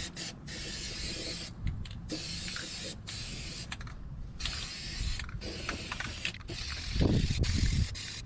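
Aerosol spray paint can hissing in repeated short bursts that start and stop, with knocks and handling noise; a louder low thump comes about seven seconds in.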